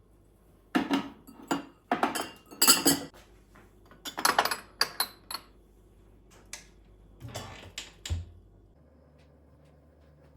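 Dishes and cutlery clinking and clattering as they are handled, in a string of short bursts that stops about eight seconds in.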